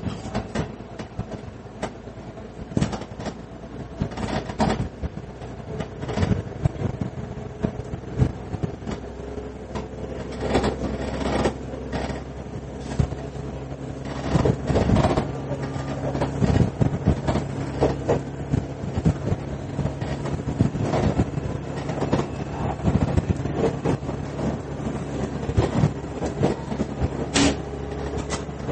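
Running sound inside a KiHa 110 series diesel railcar: the diesel engine drones steadily under the floor while the wheels rumble and knock over rail joints. The engine note grows stronger about halfway through.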